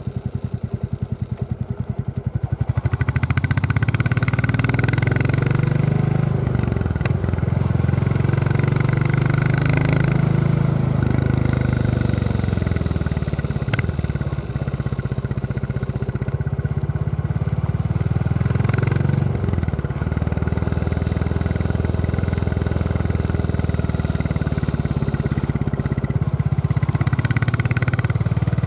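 Royal Enfield Classic 350's single-cylinder engine thumping under way. It pulses slowly at first, then opens up about two and a half seconds in, with the revs dropping and climbing again several times.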